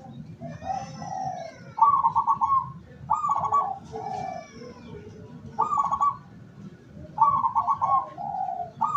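Zebra dove (perkutut) cooing: about four phrases of rapid staccato notes, each run followed by lower, drawn-out coos.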